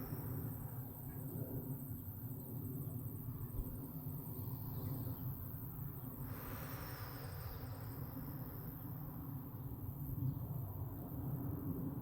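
Insects chirring steadily at a high pitch, with one slow deep breath about six seconds in, over a steady low rumble.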